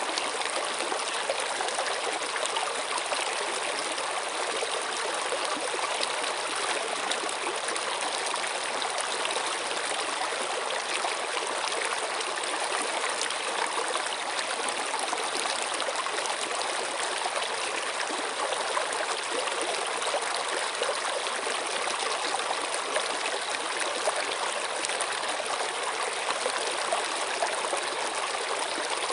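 Running water flowing steadily, a continuous even splashing and trickling that neither rises nor falls.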